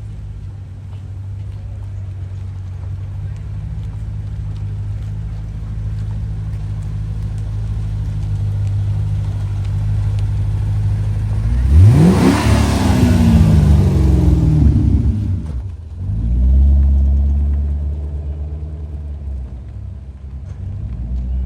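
A car engine runs steadily and grows louder, then revs hard about twelve seconds in as the car accelerates past, its pitch falling away afterwards. A deep engine rumble follows in the last few seconds.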